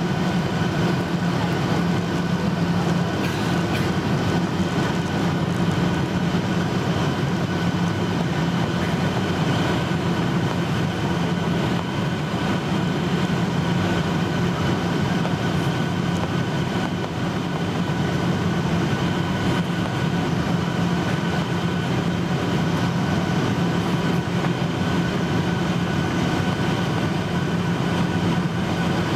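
Steady cabin noise inside a Boeing 737-800 at the overwing exit row: its CFM56 turbofan engines and the airflow giving a constant rumble and hiss, with a strong low hum and a few held tones over it.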